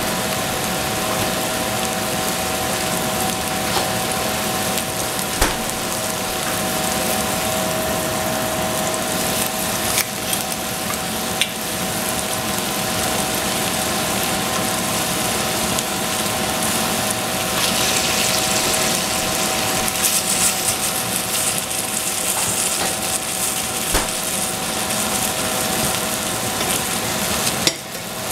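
Food frying in a pan: a steady sizzle over a constant hum, with a few sharp clicks of a utensil against the pan. The sizzle grows louder and brighter for several seconds past the middle.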